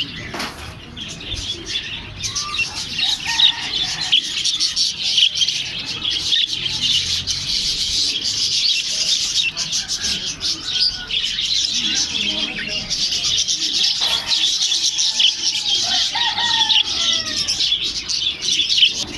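A crowd of small caged parrots chirping and chattering together in a dense, unbroken chorus of short high-pitched notes, with a few separate sliding calls standing out in the second half.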